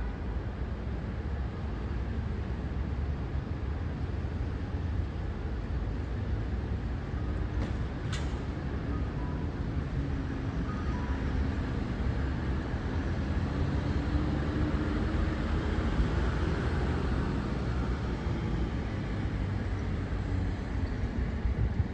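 Steady city street traffic noise, with a heavier vehicle's engine growing louder and then fading through the middle, and a single sharp click about a third of the way in.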